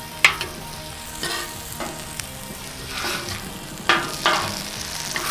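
Sausage patties and pancakes sizzling steadily on a hot griddle, with a few clinks and scrapes of metal utensils. The sharpest clinks come just after the start and again about four seconds in.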